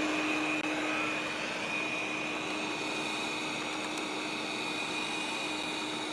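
Neabot N1 robot vacuum cleaner running on carpet: a steady whoosh of suction with a constant motor whine.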